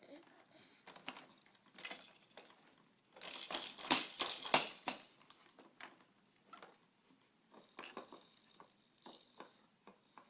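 A baby's toy rattling in bursts of quick clicks as it is shaken and knocked about. The loudest burst comes about three to five seconds in, with more rattling from about eight seconds in.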